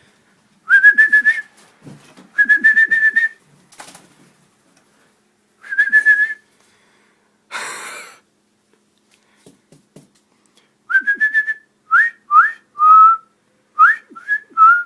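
A series of loud whistled notes: three longer notes, each rising slightly and held, then after a pause a quicker run of short notes sliding up and down. A brief rush of noise comes near the middle.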